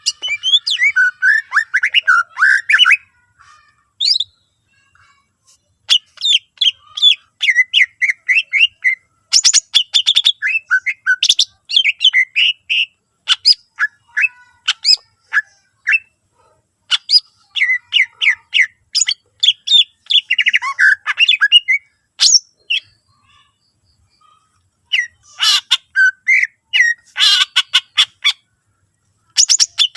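A cucak ijo (greater green leafbird) singing loudly in bursts of rapid, varied chirps, whistles and harsh notes, with short pauses between phrases and a longer pause near the end.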